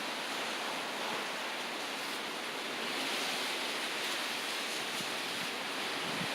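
Strong wind blowing in a steady rushing noise, like surf, swelling a little about three seconds in.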